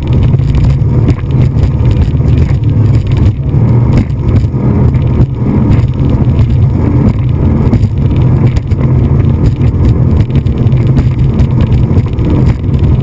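Speedboat under way: a loud, steady low rumble with a noisy haze above it.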